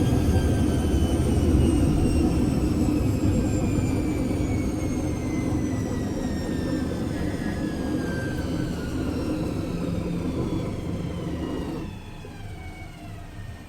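Washing machine drum spinning down after a spin: the motor's whine falls steadily in pitch over a low rumble, and the rumble drops away sharply near the end.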